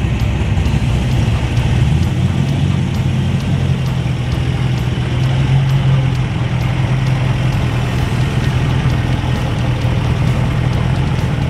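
A car engine idling steadily with a low, even rumble that swells slightly around the middle.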